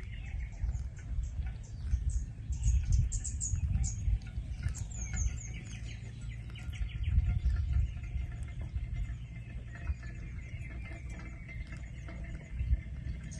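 Small birds chirping and trilling in quick, high calls, over the gusting low rumble of wind buffeting the microphone.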